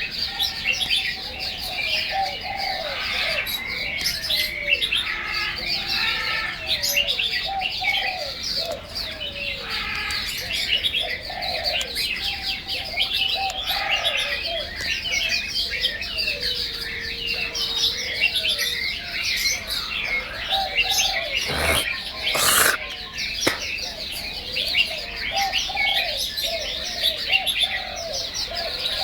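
Birds singing: a dense chorus of high overlapping chirps over a lower line of short gliding, warbling notes, with two sharp knocks a little under a second apart about two-thirds of the way in.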